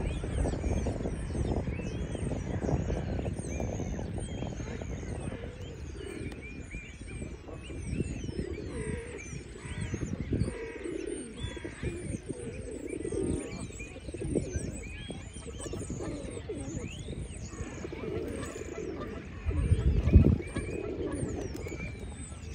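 Birds gathered for feeding at a pond: many high chirps and tweets throughout, with pigeons cooing, over a steady low rumble. A louder low rumble comes about 20 seconds in.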